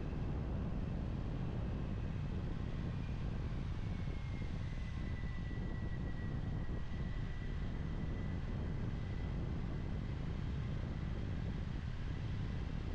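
Steady wind rush over a helmet mixed with a Kawasaki Ninja 400's parallel-twin engine running at an even cruise, heard through a helmet-mounted mic. A faint thin steady whine joins about four seconds in.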